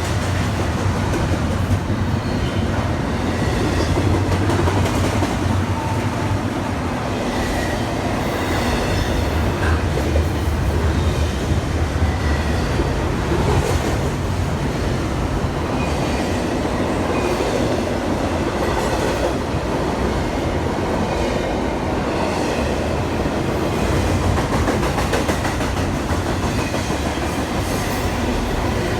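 A train rolling past at steady speed, its wheels clacking over the rail joints with a continuous low rumble.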